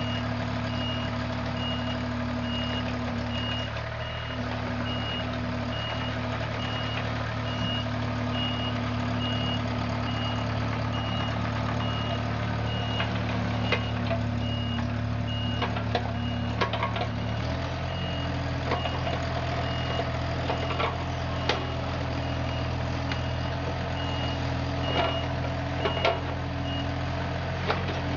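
Compact excavator's diesel engine running steadily with its travel alarm beeping over and over. About two-thirds of the way in the engine note drops, and sharp knocks come through in the later part.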